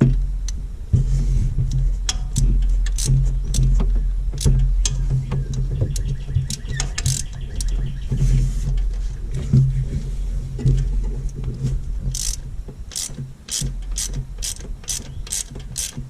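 Socket ratchet clicking in runs as a spark plug is turned, over a steady low hum; near the end the clicks come evenly, about three a second.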